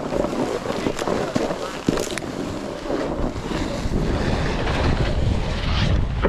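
Wind rushing over the microphone while a snowboard scrapes across snow, getting louder toward the end. A couple of sharp clicks come in the first two seconds.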